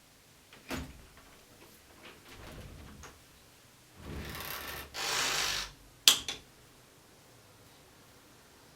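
Handling noises in a quiet room: a knock, some rustling, two longer sliding or scraping noises, then two sharp clacks a little after the middle.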